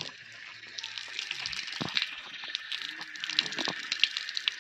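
Small birds chirping in quick, irregular short calls, with faint voices underneath.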